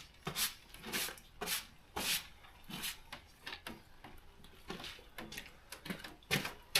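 Irregular rubbing and scraping strokes by hand on a surface, about two a second with uneven gaps, fainter in the middle and sharper near the end.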